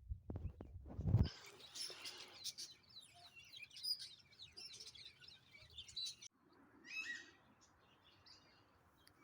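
Small birds chirping, many short high calls overlapping, with a few low thumps in the first second.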